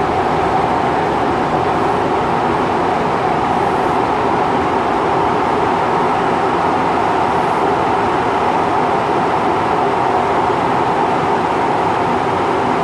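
Refurbished Osaka Metro 66 series subway train running at steady speed, heard from inside the car: an even rumble of wheels on rail and the tunnel, with no change in pitch.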